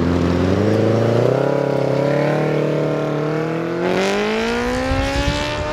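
A car's engine pulling hard under acceleration, its note climbing steadily in pitch over about five seconds.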